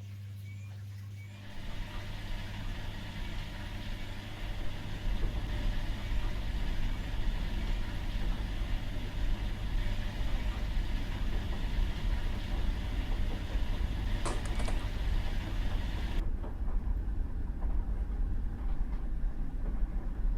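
Washing machine running: a steady low hum, then about a second and a half in a rumbling motor-and-drum noise starts and grows louder a few seconds later. Near the end the higher hiss in it drops away while the low rumble goes on.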